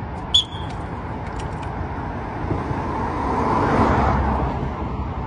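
A vehicle passing on a nearby road: a broad rushing noise that swells to a peak about four seconds in and then fades. About half a second in there is a short, sharp high-pitched chirp.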